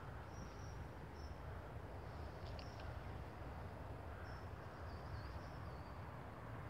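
Faint high chirps, a few short ones and a longer wavering one about four seconds in, typical of small birds, over a steady low background rumble.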